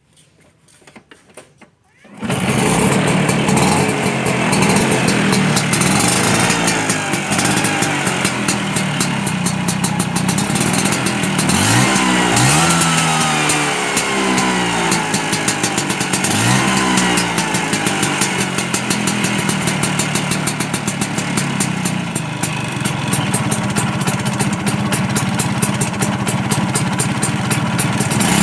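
A Vespa scooter engine breathing through an aftermarket long racing exhaust starts about two seconds in and runs loud with a rapid crackle, revved up briefly about three times.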